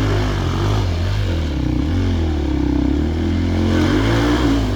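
Enduro motorcycle engine running, its revs rising and falling several times as the throttle is worked.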